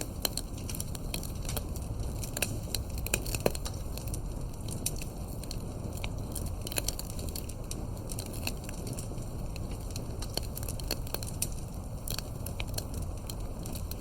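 Campfire crackling: burning wood pops and snaps at irregular moments over a steady low background noise.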